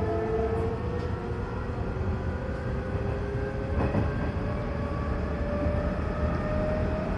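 Hanshin 9000 series train's Mitsubishi GTO-thyristor VVVF inverter whining, its tone rising slowly as the train gathers speed, over the steady rumble of the wheels on the rails. A single short click comes about four seconds in.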